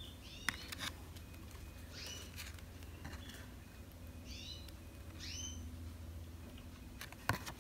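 Faint chirps of a bird, short calls a second or two apart, each sweeping up and back down, over a low steady hum. A couple of sharp clicks come near the end.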